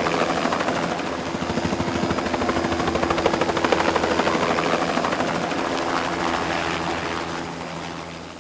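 Helicopter in flight: the rotor's rapid, even chop over the steady engine tone, fading out near the end.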